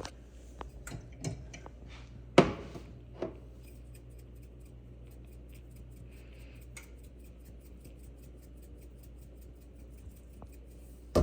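Kitchen handling sounds around a pot: a few clicks and knocks in the first few seconds, one sharp knock about two seconds in, then a fast, even run of faint ticks over a low steady hum, and another knock at the very end.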